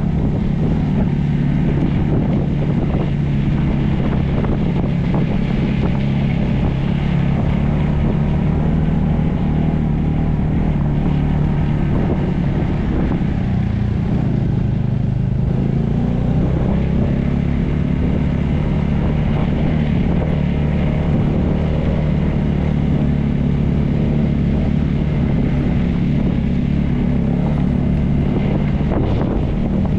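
Motorcycle engine running at a steady speed while riding, its low hum holding the same pitch throughout, with wind rushing over the microphone.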